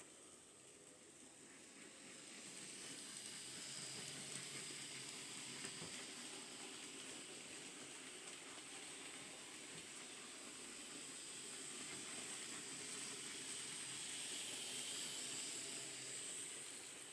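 N gauge model train running on the layout: a faint, steady whirring hiss from the small motor and wheels on the rails, swelling a little about three seconds in and again near the end as it passes closer.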